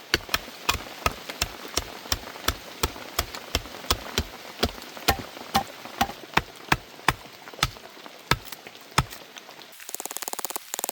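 Repeated sharp knocks, about two to three a second and slightly uneven, like wood being chopped or hammered. Near the end the knocks stop and a fast, even rattle starts.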